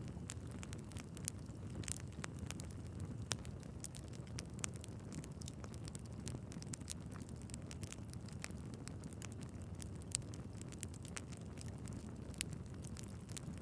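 Wood fire in a fireplace burning steadily, with a low rushing of flames and frequent small crackles and pops from the logs; a few louder pops stand out, about a second in and near the end.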